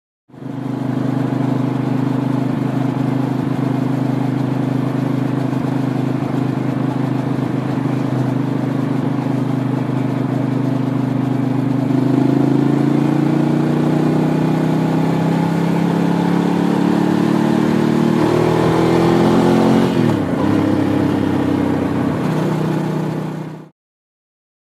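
Ducati 750 Sport's air-cooled 90-degree V-twin running steadily under way, then rising in pitch from about halfway as the bike accelerates, with a quick drop and recovery in pitch near the end before the sound cuts off suddenly.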